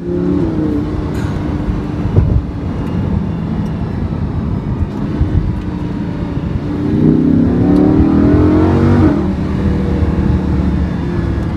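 Lamborghini Huracán LP 610-4's V10 engine heard from inside the cabin, pulling steadily, then rising in pitch for about two seconds before dropping back abruptly about nine seconds in.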